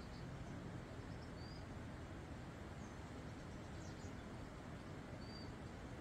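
Steady outdoor background noise with a few faint, high bird chirps, including two short whistled notes about four seconds apart.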